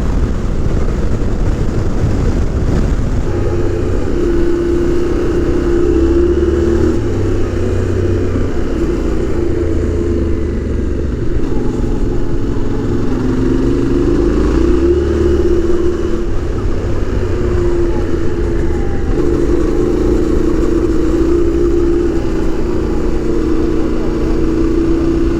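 Yamaha Ténéré 700's parallel-twin engine running steadily at speed on a dirt road, its pitch rising and falling slightly with the throttle, over wind and tyre noise.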